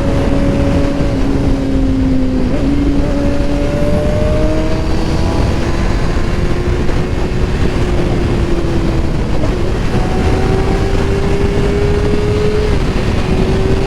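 Kawasaki ZX-6R 636 inline-four engine running at highway speed, a steady engine note over low wind rush. The pitch jumps briefly about two and a half seconds in, then climbs slowly as the bike gathers speed.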